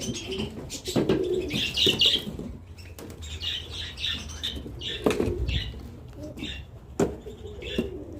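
Birds in a pigeon loft: pigeons cooing and flapping their wings, with repeated short chirps from small cage birds. A few sharp knocks come about a second in, near the middle and near the end.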